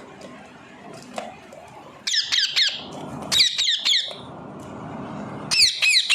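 Parrot giving rapid runs of short squawks, each dropping in pitch, in three loud bursts starting about two seconds in.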